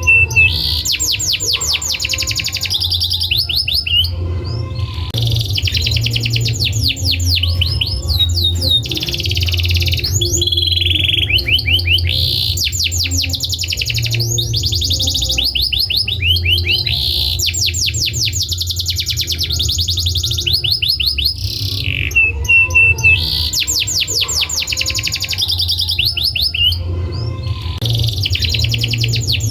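Domestic canary singing: long runs of very fast, high-pitched trills and rolling phrases, broken by short pauses, over a steady low hum.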